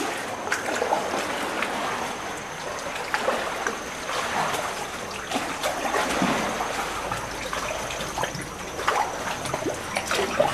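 Sea water trickling and splashing, with many small splashes and drips scattered throughout.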